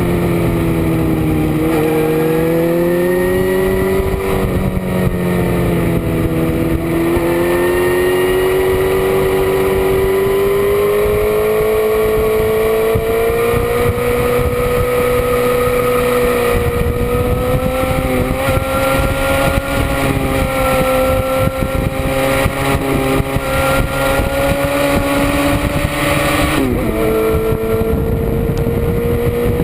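Motorcycle engine running hard at track speed with wind rushing past. Its pitch dips twice in the first few seconds, climbs slowly through a long pull, then drops sharply and picks up again near the end, as at a gear change.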